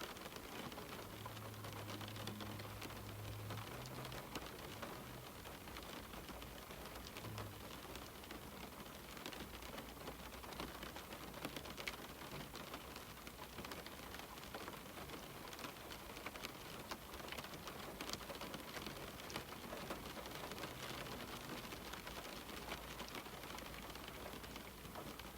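Steady rain pattering on a window pane, with many small drop ticks over a constant hiss. A faint low hum sits under it for a couple of seconds near the start.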